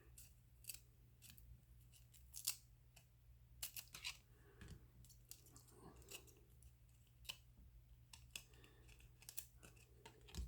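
Trading cards being flipped and slid against one another in the hands, making faint, irregular crisp clicks and snaps over a low steady hum.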